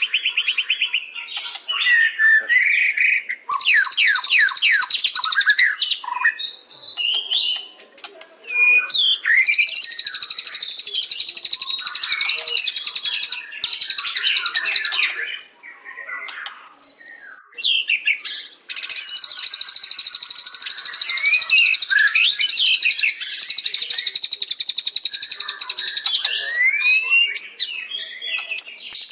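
White-rumped shama (murai batu) singing: long runs of rapid, high trilling lasting several seconds at a time, broken by varied whistled phrases of rising and falling notes.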